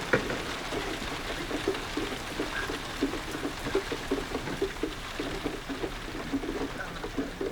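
Heavy rain falling on the boat, a dense irregular spatter of drops over a steady hiss.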